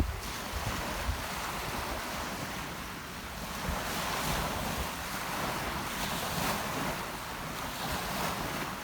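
Rough Mediterranean sea surf washing in, the wash swelling and easing, with wind buffeting the microphone in low rumbling gusts.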